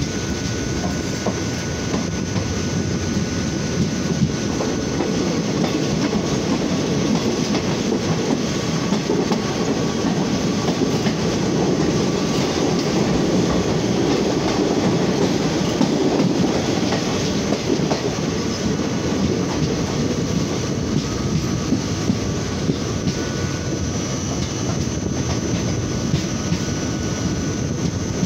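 Passenger train running on the rails, heard from an open coach door: steady wheel and track rumble with rail clatter and a faint steady whine over it. It grows a little louder around the middle, while the coach passes through a tunnel.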